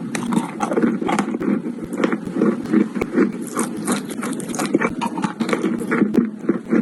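Chalk being bitten and chewed close to the microphone: a dense, unbroken run of sharp crunches and cracks.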